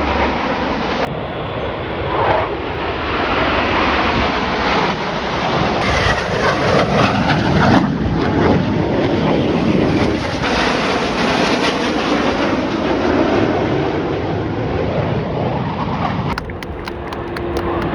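Military aircraft formation flying past during an air display: a continuous engine noise that swells and fades as the aircraft pass, with wind buffeting the microphone.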